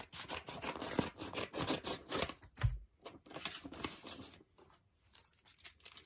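Plastic packaging rustling and crinkling as it is handled and opened, with a dull knock a little under halfway through. The rustling thins to scattered light clicks for the last second and a half.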